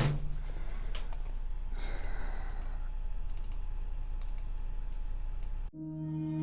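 Scattered computer mouse clicks and keyboard taps over a steady low electrical hum from the microphone. About five and a half seconds in, the sound cuts off abruptly and music with sustained held tones begins.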